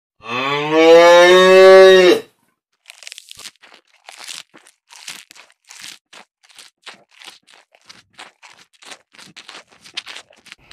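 A cow moos once for about two seconds, rising in pitch at the start. Then comes a long, irregular run of short, crisp crunching and tearing sounds, several a second, like grass being cropped and chewed by grazing cattle.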